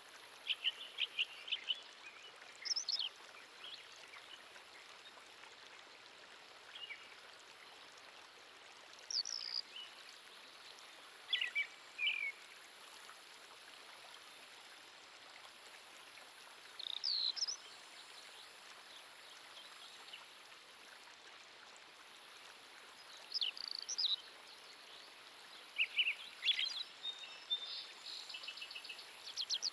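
Nature ambience: small birds chirping in short bursts every few seconds over a steady hiss, with a high thin drone that breaks off and resumes several times.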